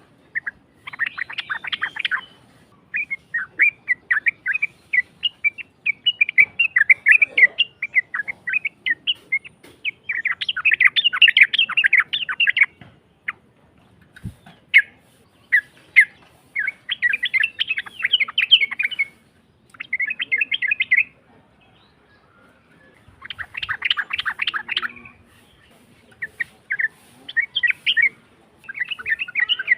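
Yellow-vented bulbul (trucukan) song with a harsh voice, played as a lure call: repeated phrases of rapid chattering notes, each a second or two long, with short pauses between.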